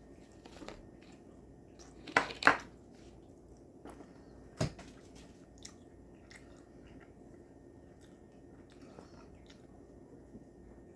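Food being handled and arranged on a plate: two loud crackly rustles about two seconds in, a sharp knock a couple of seconds later, and scattered light clicks and taps.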